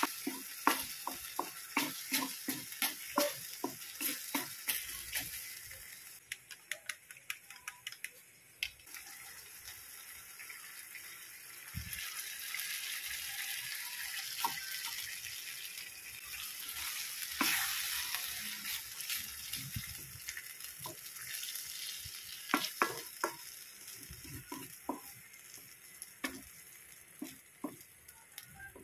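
Sardines in tomato sauce sizzling in an aluminium wok, with a wooden spatula stirring and scraping that clicks against the pan in quick runs. Partway through, beaten egg goes into the pan and the sizzle swells.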